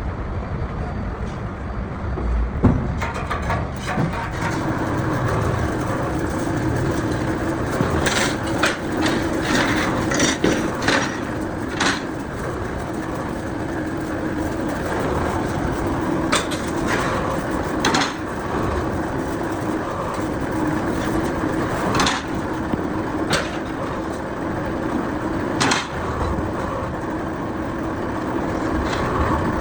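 Workshop noise: a steady machine hum with scattered sharp metal knocks and clicks, a cluster of them about a third of the way in and more later on.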